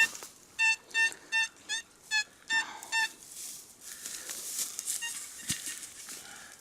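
Metal detector sounding a target: seven short beeps, each in the same steady mid-high tone and about 0.4 s apart, as the coil is swept over a buried piece the detector reads as copper. After the beeps come faint rustling and a soft thump.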